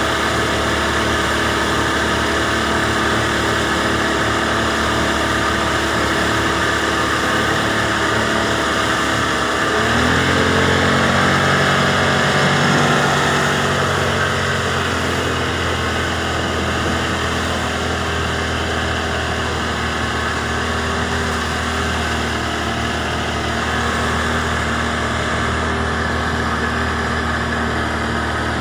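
Boat engine running steadily. About ten seconds in a deeper engine note comes in and the pitch shifts, a little louder for a few seconds, then it settles back to a steady run.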